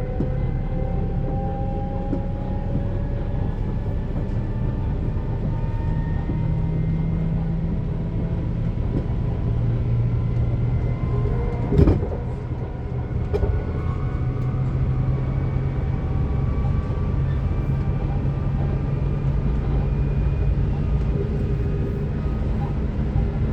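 Desiro HC electric multiple unit running: a steady low rumble with the traction motors' whine in several faint tones gliding slowly upward as it gathers speed. A single sharp knock about halfway through.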